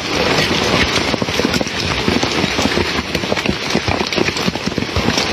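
Heavy rain and floodwater: a loud, steady rushing hiss thick with fine crackling patter.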